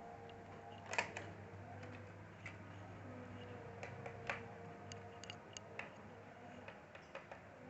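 Scattered small clicks and taps of a screwdriver working the screws out of a laptop's plastic underside, the loudest about a second in, over a faint steady hum.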